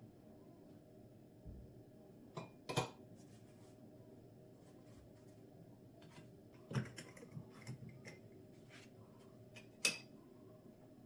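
Scattered clicks and knocks of dishes and utensils being handled in a kitchen: a sharp knock about a quarter of the way in, a quick cluster of clinks past the middle and another knock near the end, over a steady low hum.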